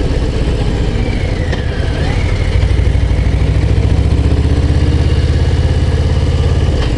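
Harley-Davidson Low Rider ST's Milwaukee-Eight 117 V-twin running under load on a climb: a steady low throb of exhaust pulses that grows a little louder about two and a half seconds in.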